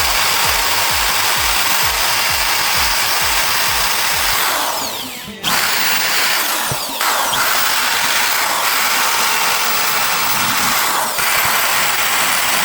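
Small handheld electric power tool, such as a drill or rotary tool, running at high speed in long stretches. Its pitch falls away briefly several times as it is let off, about five and seven seconds in, then again around nine and eleven seconds, and picks up again each time. Background music with a steady low beat plays underneath.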